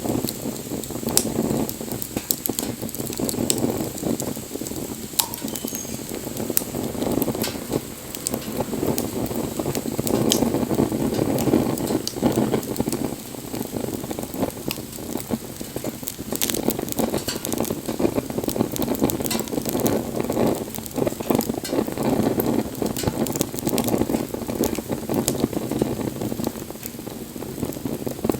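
Wood fire crackling steadily, a dense sizzling crackle with scattered sharp pops.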